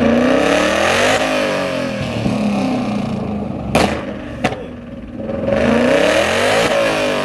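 Car engine revved hard again and again, its pitch climbing and falling, with two sharp bangs about four seconds in; the revving picks up again near the end.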